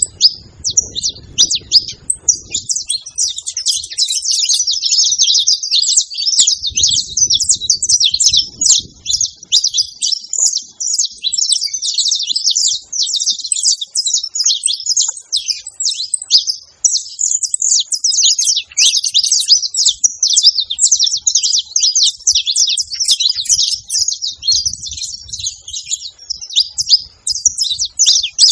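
Saffron finches chirping and singing in a continuous rapid stream of high, sharp notes.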